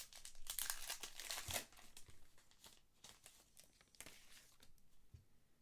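Crinkling and tearing of a trading card pack wrapper being handled and opened, with light rustles of cards. The rustling is busiest in the first second and a half, then turns faint and scattered.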